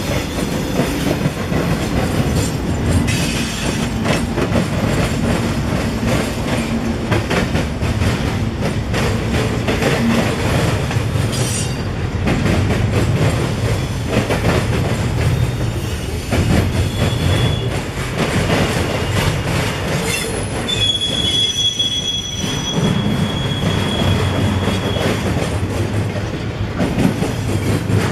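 Freight train rolling past with a steady rumble and wheels clacking over the rail joints. A high, steady wheel squeal sets in briefly just past the middle and again, longer and louder, about two-thirds of the way through.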